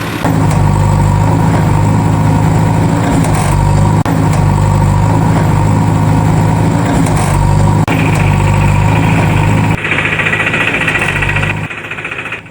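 Tractor-style engine sound idling steadily, broken by two brief cuts about four and eight seconds in. Near the end a higher whine joins in and the sound drops away.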